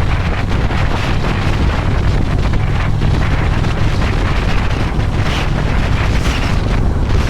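Wind rushing over the microphone of a motorcycle-mounted camera while riding, over the steady low rumble of a Harley-Davidson Electra Glide's V-twin engine.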